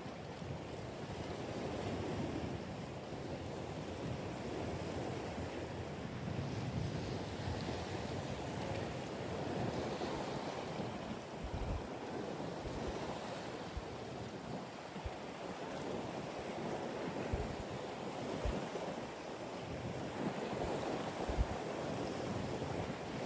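Steady wash of ocean waves and wind, with a few brief low thumps of wind buffeting the microphone.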